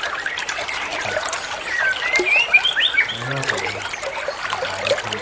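White-rumped shama (murai batu) singing quick, twisting whistled notes that rise and fall, busiest about two to three seconds in, over steadily trickling water.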